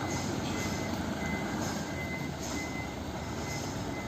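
A truck's warning beeper beeping steadily about once every three-quarters of a second, over the continuous rumble of a running diesel truck.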